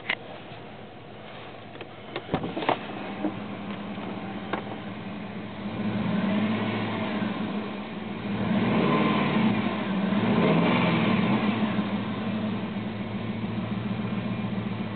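2002 Dodge Durango engine idling, then revved twice, its pitch rising and falling each time, the second rev longer and louder; a few sharp clicks come in the first few seconds. The weird cold-engine noise is absent while it revs.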